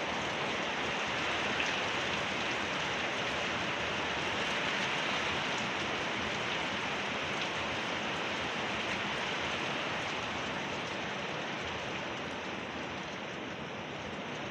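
Heavy rain pouring down and pattering on surfaces in a steady hiss, easing off slightly near the end.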